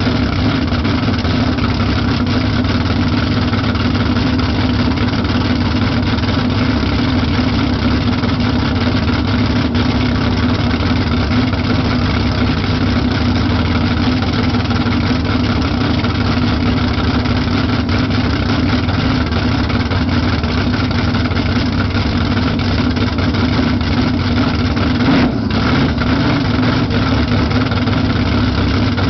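Camaro drag car's engine idling loudly and steadily, with one brief blip in the sound near the end.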